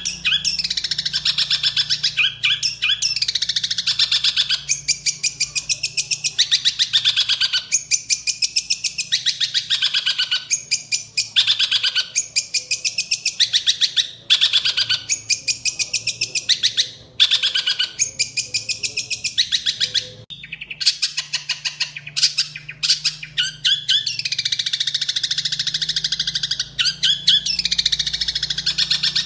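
Long-tailed shrike singing fast, loud, harsh chattering phrases, strings of very rapid high notes a second or two long with short gaps, its song filled with mimicry of Eurasian tree sparrow calls. About twenty seconds in the song breaks off into scattered single notes before the fast phrases resume.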